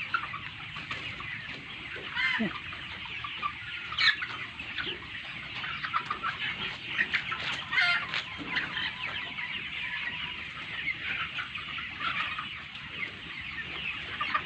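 A large flock of farmed chickens clucking and calling without a break, many short calls overlapping. A few louder single calls stand out, about two, four and eight seconds in.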